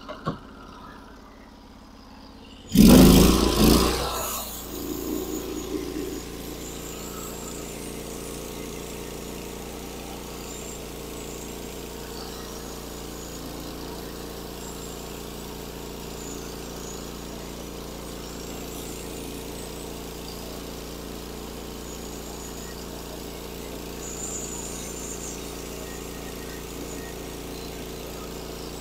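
Norwood HD36 sawmill's gas engine started with a loud burst a few seconds in, then settling into a steady run.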